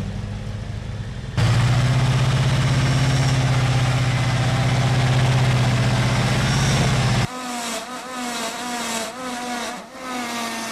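Ford 302 V8 engine running at a steady, raised speed in a truck that has been starving for fuel and overheating. It comes in abruptly about a second in and cuts off suddenly past the middle, followed by a quieter warbling sound that repeats about twice a second.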